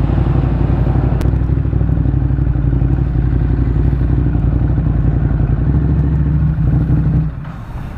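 Motorcycle engine running steadily under the rider, with road noise; about seven seconds in the engine sound drops off sharply as the bike slows.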